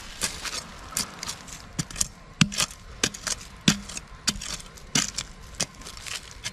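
A digging tool striking and breaking into packed earth in a run of sharp knocks, irregular at about two a second.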